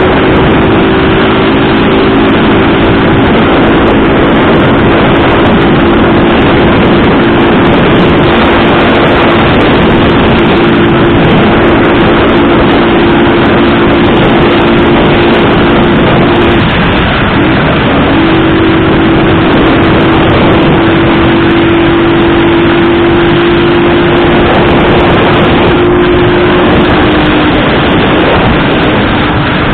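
Motorcycle engine running at a steady road speed under heavy, loud wind noise on the microphone. The engine note breaks off briefly about two-thirds of the way through, then comes back at a steady pitch.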